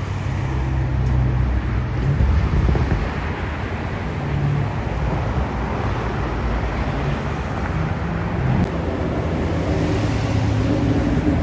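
Car engine running at low revs, a steady low rumble over outdoor traffic noise.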